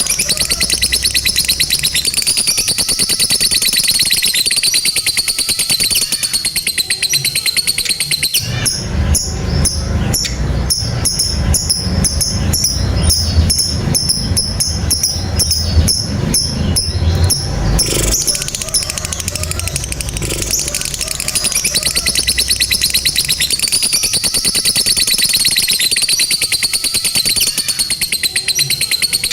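Lovebird's long 'ngekek' song: a rapid, high-pitched chattering trill held unbroken for several seconds at a time. About a third of the way in it breaks into choppier rapid ticks over a low rumble, then the long steady trill resumes.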